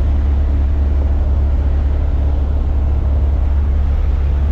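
Small propeller plane's engine droning steadily, a constant low hum.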